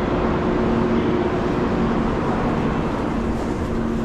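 Steady rumble and hum of a local train standing at the platform with its doors open, a low drone with a steadier tone over it.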